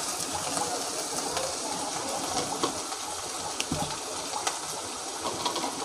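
Onion and ginger paste frying in hot mustard oil in a pan: a steady sizzle with scattered small pops, and a brief soft thud a little before four seconds in.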